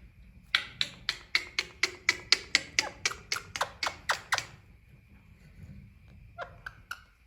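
Female Indian ringneck parakeet giving a rapid run of short calls, about four a second, the later ones sliding downward in pitch; the run stops about four and a half seconds in, and a few softer chirps follow near the end.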